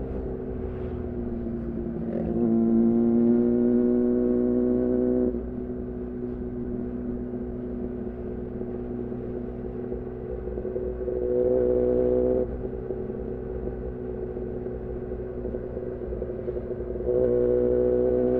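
2014 Yamaha R6's 600 cc inline-four running through an aftermarket R9 titanium muffler and Leovince header while riding. The engine holds moderate revs on light throttle, with louder spells of throttle about two seconds in, around eleven seconds, and near the end, the pitch rising slightly in each.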